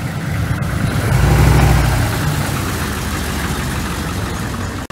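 A car engine running with a low rumble that swells louder about a second in and eases back a second later.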